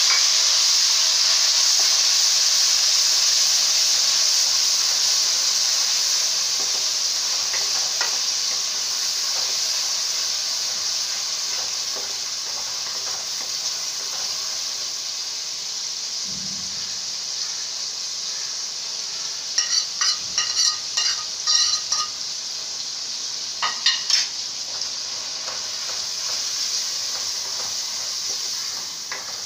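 Chopped tomatoes sizzling in hot oil with fried garlic and cumin in an aluminium pot, the sizzle loudest at first and slowly dying down. A metal spoon stirs and scrapes against the pot, with a run of clattering scrapes about two-thirds of the way through.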